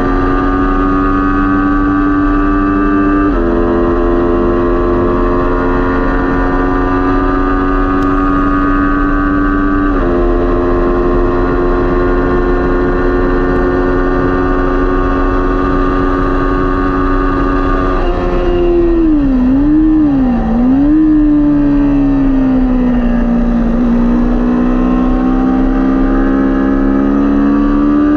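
Kawasaki Ninja 400 parallel-twin racing engine at high revs. It holds a near-steady pitch with two small steps, then about 18 seconds in the revs fall and dip and recover twice. From about 24 seconds they climb steadily again.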